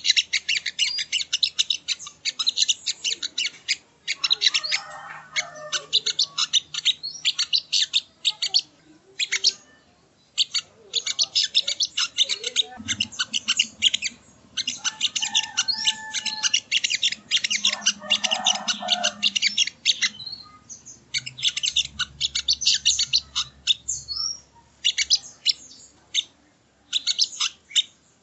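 Sogon (sogo ontong) songbird singing: long bursts of rapid, high, sharp chirps repeated very fast, broken by short pauses about ten seconds in and again about twenty seconds in.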